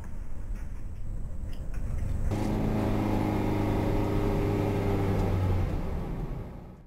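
Car cabin noise picked up by a dashcam: a low rumble of engine and road noise, joined about two seconds in by a steady low engine drone. The drone fades out near the end.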